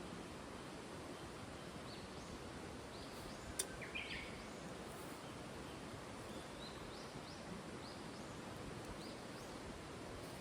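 A bird calling with a run of short, high rising chirps over a steady outdoor hiss, with one sharp click about three and a half seconds in.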